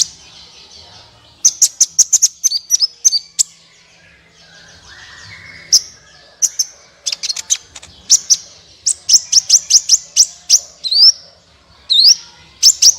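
Sunbird calling: quick runs of sharp, high chirps in repeated bursts, with a few rising upswept notes near the end.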